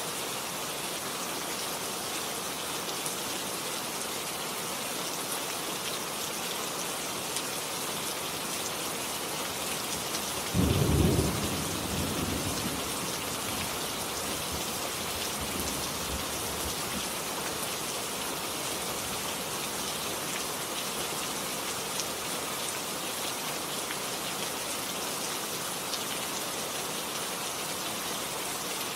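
Steady heavy rain falling, with a sudden loud clap of thunder about ten seconds in that rumbles away over the next few seconds.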